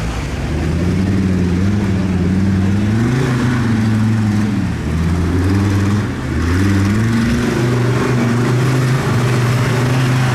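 Tractor engine running hard, its pitch rising and falling several times as it revs up and down.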